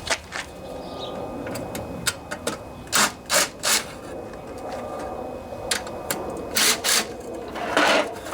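A 1/4-inch socket ratchet loosening the bolts that hold a Tecumseh engine's cover, with metal clicks and knocks. Short rasping bursts come three in a row about three seconds in, then two more and a longer one near the end.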